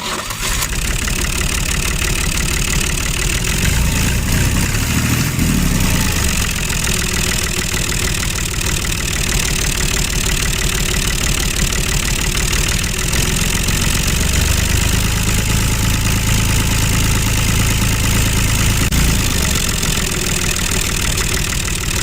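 Small machine motor running steadily with a fast, rattling chatter, its low hum shifting a little in pitch a few times.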